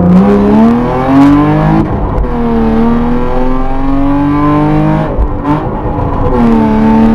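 BMW 325i E36's straight-six engine heard from inside the cabin, revving up. The revs fall back about two seconds in and climb again, then break off sharply around five seconds in before building once more.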